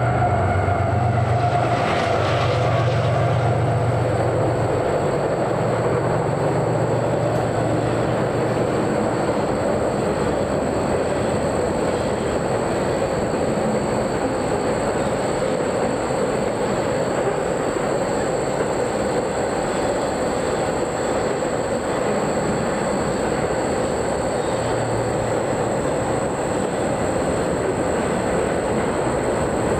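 Train rolling past at close range: a steady rumble of wheels on rail that holds without letup, with a low drone that fades out over the first few seconds.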